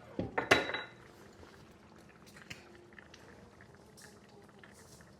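Cookware clinking sharply a few times about half a second in, then faint scattered ticks of kitchen handling over a quiet background.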